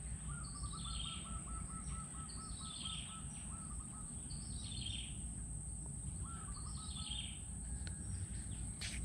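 Riverside birds calling: a high, descending call phrase repeated four times, about every two seconds, over a rapid trill of short repeated notes. A steady high hiss and a low rumble run underneath.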